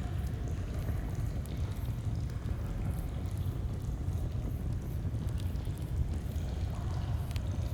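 Steady low rush of a flowing stream, with sparse faint crackles and pops from a campfire.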